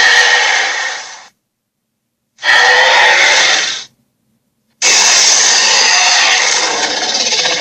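Dragon roar sound effects: three harsh, growling roars with dead silence between them, the first dying away about a second in, the last the longest and turning rattly near the end.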